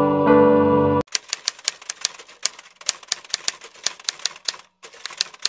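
Soft piano music that cuts off abruptly about a second in, followed by a typewriter sound effect: rapid keystroke clicks, several a second, with a brief pause near the end, keeping time with on-screen text being typed out.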